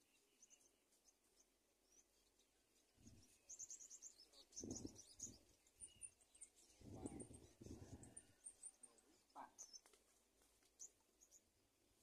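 Faint, high-pitched bird chirps and short rapid trills, with a few low muffled sounds in the middle.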